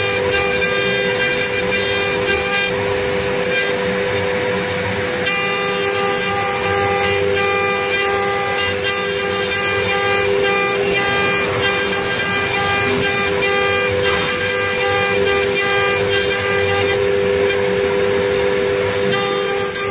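Woodworking CNC router running, its spindle giving a steady whine over the noise of the bit cutting wood.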